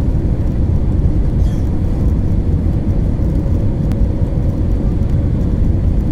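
Airliner cabin noise during the landing roll: a loud, steady low rumble of the engines and rushing air, with a faint steady hum above it.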